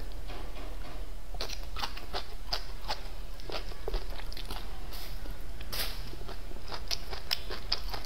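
Close-up crunching and chewing of a mouthful of fried fish: a run of sharp crackly bites, denser from about a second and a half in.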